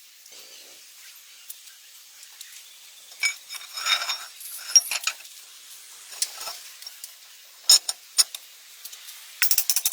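Light clinks, taps and short scrapes of small hard objects being handled, scattered unevenly, with a sharper cluster of clicks near the end.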